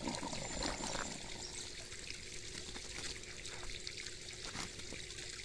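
Water trickling and pouring steadily, with a few faint ticks in the first second or so.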